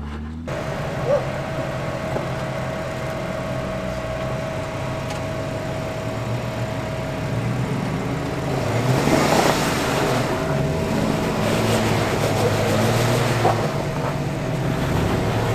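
Off-road Jeep engine running at low revs as the rig crawls over rock, with louder rushing noise from about nine seconds in and the engine picking up near the end.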